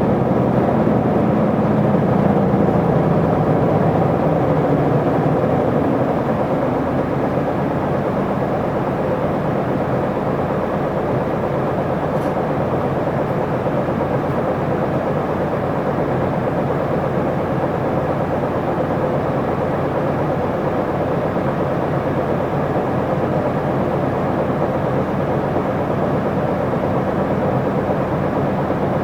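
Isuzu Erga city bus heard from inside the cabin while driving: diesel engine and road noise, the engine tone falling in pitch over the first few seconds, then running steadily.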